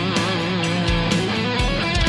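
Heavy rock song playing: electric guitars over drums.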